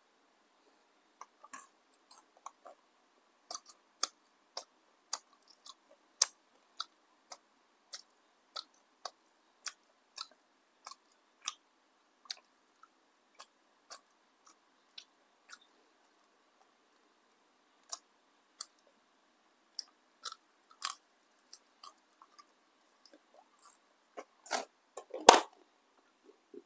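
Close-up crunchy chewing of crisp fried battered tempeh, with sharp crunches about one or two a second and a short pause about two-thirds of the way through. Near the end comes a louder cluster of crunches and a thump.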